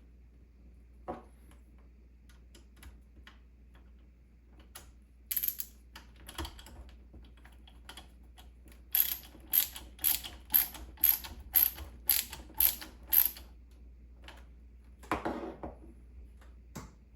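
Sharp, ratchet-like mechanical clicks from hand work on PC parts: scattered single clicks, then a steady run of about ten loud clicks, two to three a second, and a short rustle near the end.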